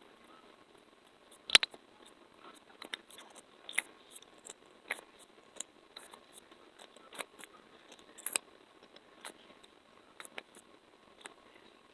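Close-miked ASMR trigger sounds: irregular sharp clicks and taps, a few a second, the loudest about a second and a half in.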